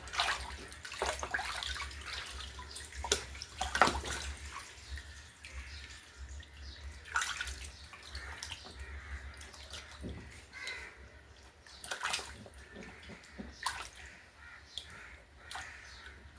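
Water splashing and sloshing in a basin as a chicken is handled in it for plucking, in irregular splashes and drips, the loudest about four seconds in.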